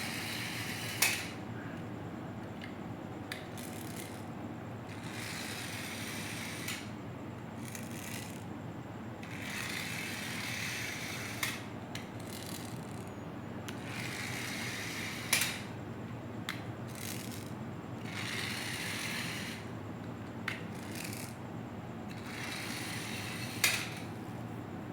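Toy cars' small gear mechanisms whirring in repeated bursts of a second or two, about every four seconds. A few sharp clicks come at the ends of some bursts.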